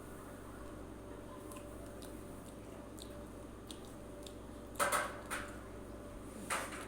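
Close-miked chewing of raw eggplant: soft wet mouth clicks, then a few louder bites about five and six and a half seconds in.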